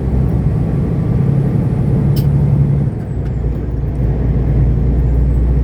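Semi truck's diesel engine and road noise droning steadily inside the cab, with a single sharp click a little over two seconds in. About three seconds in the engine note drops away, then builds back up.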